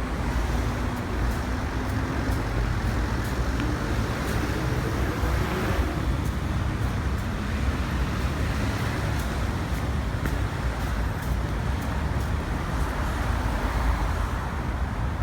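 Steady city street traffic noise with a constant low rumble of passing vehicles.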